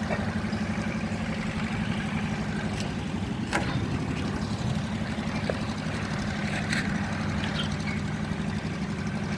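Engine of the concrete-pouring equipment running steadily with an even low pulsing drone, with a few short knocks over it.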